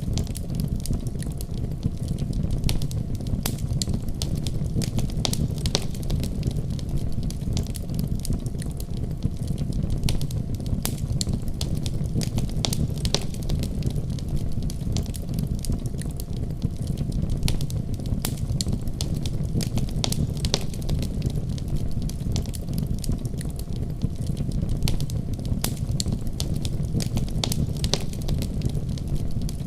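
Wood logs burning in a fireplace, crackling with many sharp pops at irregular intervals over a low, steady rumble.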